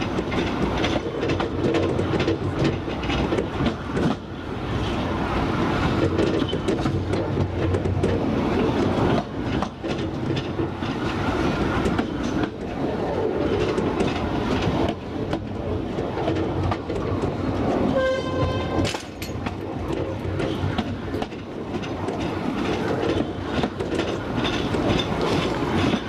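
2 ft narrow-gauge passenger train running, heard from an open carriage veranda: the wheels clack over the rail joints and the coaches rattle. About three-quarters of the way through, the battery-electric locomotive's horn sounds once for about a second.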